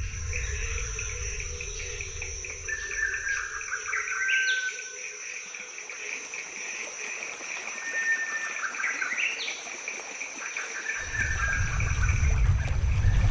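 Rainforest insects keeping up a steady high-pitched buzz and trill, with birds calling over it; twice a held note ends in a sharp upward whip. A low rumble runs through the first few seconds and returns near the end.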